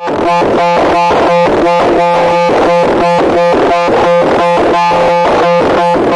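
A loud, harsh electronic buzzing tone pulsing on and off at an even rapid rate, about three to four pulses a second.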